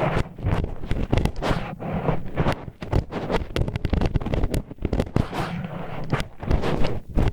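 Disposable wooden chopsticks scraping and rubbing inside an ear-cleaning ASMR microphone's ear, making a close, dense run of crackling scratches and clicks.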